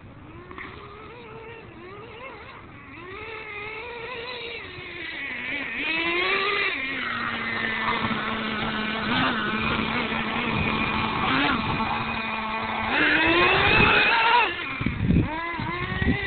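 Radio-controlled monster truck's small nitro engine running and revving as the truck is driven. Its pitch rises and falls, then holds steady for several seconds in the middle and climbs again near the end, getting louder as it goes.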